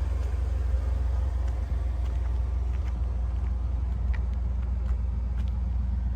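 1986 Pontiac Firebird Trans Am's V8 engine running steadily with an even, low, pulsing note.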